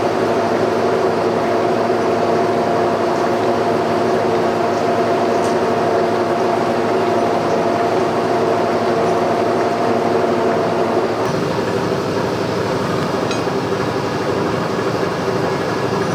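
Boring bar cutting a worn pivot hole in a steel suspension frame, its drive running steadily with a hum and several held tones on a rough bore pass. About eleven seconds in the tones change and the sound drops slightly.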